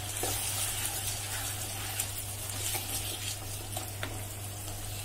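Rice and vegetables frying quietly in a nonstick pan while being stirred with a wooden spatula, with a few light taps and scrapes from the spatula. A steady low hum sits underneath.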